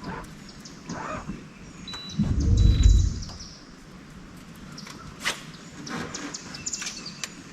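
Birds chirping faintly, with a low rumble lasting about a second a little after two seconds in and a few sharp clicks later on.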